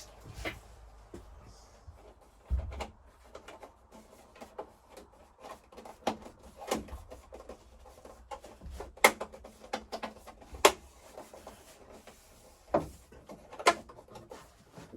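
Scattered clicks and knocks of parts and tools being handled during plumbing work. The sharpest clicks come about nine and ten and a half seconds in, and there is a dull thump about two and a half seconds in.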